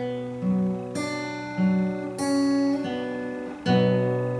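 Acoustic guitar strumming slow chords, a new chord or bass note about every second, each left to ring: the closing bars of the song after the last sung line.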